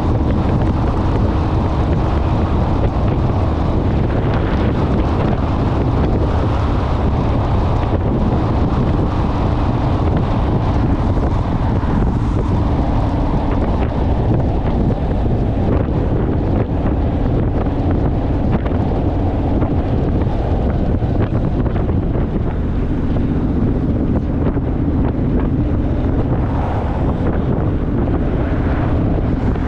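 Wind rushing over the microphone of a motorcycle under way at road speed, with the steady hum of its engine underneath.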